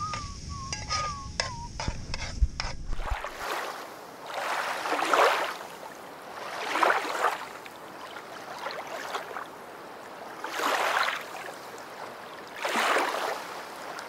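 A spoon stirring and clinking in a metal pan of cooking seafood, with light clicks. About three seconds in this gives way to rushing water that swells and fades four times, like waves washing in.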